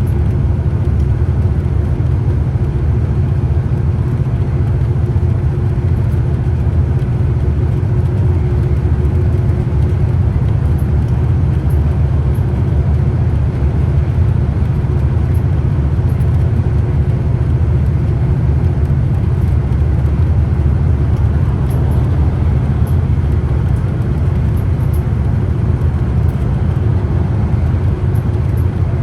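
Scania CK320UB Citywide city bus on the move: a steady low drone of diesel engine and road rumble, with a constant hum a little higher up and no change in pace.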